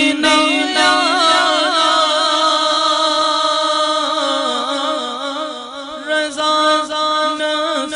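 A male naat reciter singing one long, wavering, ornamented held note without clear words, unaccompanied.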